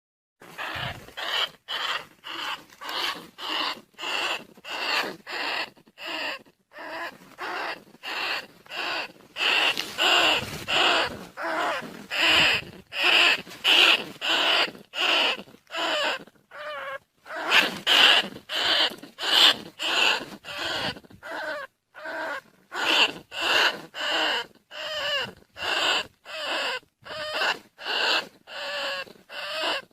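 Field rats squeaking over and over, short sharp squeaks at about two a second, played as a decoy call to lure rice-field rats and bandicoot rats.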